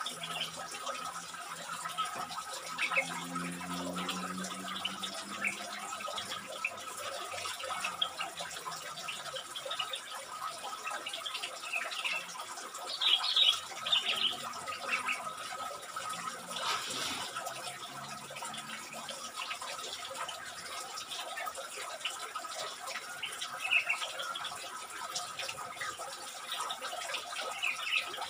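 Small songbirds giving short chirps now and then, loudest about halfway through, over a steady hiss and a constant high-pitched tone.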